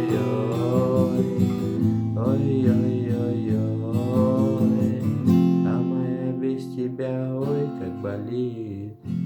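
Acoustic guitar strummed in a steady chord rhythm, with a wordless vocal line gliding over it.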